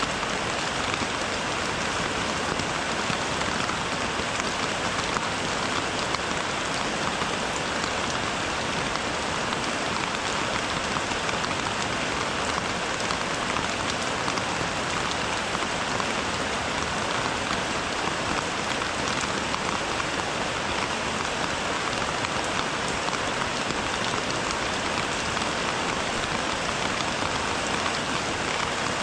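Steady rain falling: a continuous even hiss with individual drops ticking through it.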